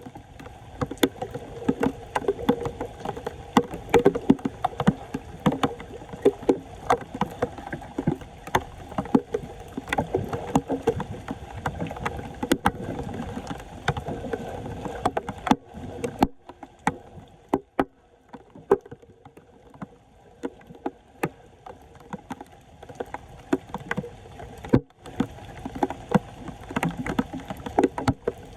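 Floodwater splashing and sloshing as a clogged street drain is worked clear, with many irregular sharp knocks and clicks. It quietens for several seconds past the middle, then the splashing picks up again near the end.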